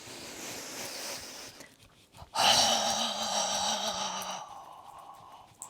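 A breathy rush of air, then, about two and a half seconds in, a long exhaled 'ho' held on one steady low pitch and fading out: the qigong healing sound 'ho', used to release worry.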